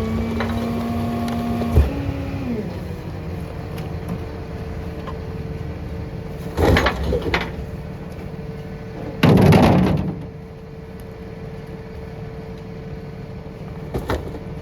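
Rear-loader garbage truck running while it packs recycling: the engine note drops about two seconds in and settles to a steady idle. Clattering comes a few seconds later, then a louder crash of recycling about two-thirds of the way through.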